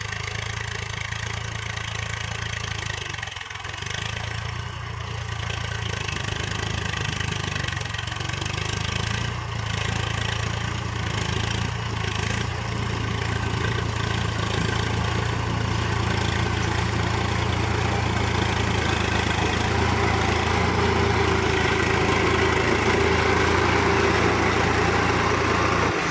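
Swaraj FE tractor's diesel engine running steadily, growing gradually louder through the second half.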